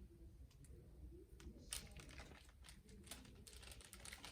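Faint crinkling and ticking of plastic wrappers and bags being handled, as individually wrapped toys are put into small plastic bags.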